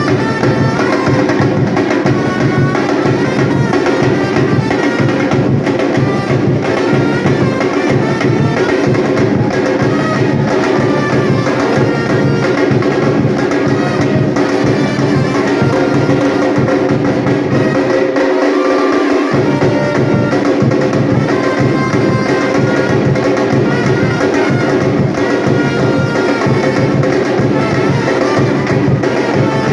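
Batucada percussion ensemble playing a loud, dense drum groove over pitched musical parts; the low bass drums drop out for about a second roughly two-thirds of the way through, then come back in.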